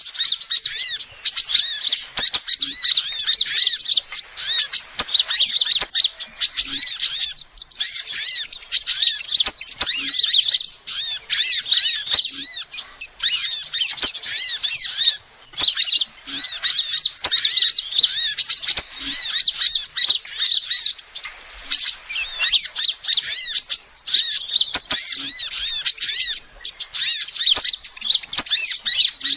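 Female sunbird calling: a fast, nearly unbroken stream of high-pitched chirps and twitters, with short breaks about seven and fifteen seconds in.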